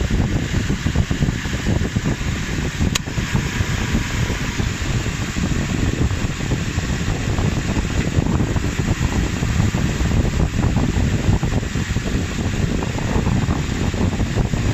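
A 1999 Ford Explorer running with a loud, rough, irregular rumble that its owner cannot explain, with a single sharp click about three seconds in.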